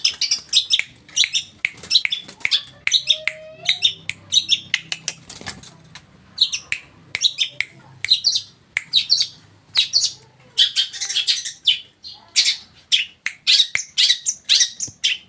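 Long-tailed shrike (cendet/pentet) singing a fast, continuous stream of short, sharp, high chattering notes, with a couple of brief pauses.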